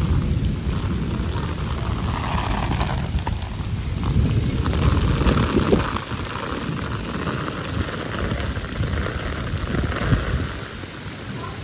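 Heavy rain pouring down steadily in a storm, with a low rumble underneath.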